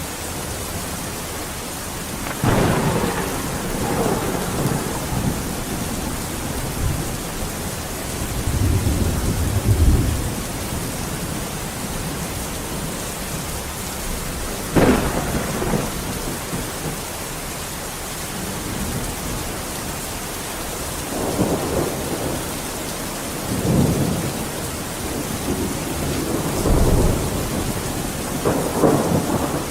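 Steady heavy rain with repeated rolls of thunder. The rumbles swell and fade every few seconds, with a sharper crack about halfway through.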